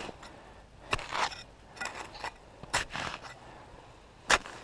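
Hand digging tool chopping and scraping into frozen, snowy ground to dig out a metal detector target: three sharp strikes, the last the loudest near the end, with short scrapes between.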